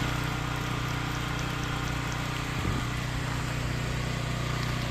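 Engine running at a steady idle, a constant low hum.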